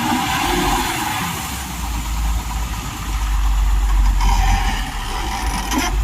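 Heavy diesel engine running, its deep low rumble growing stronger about two seconds in.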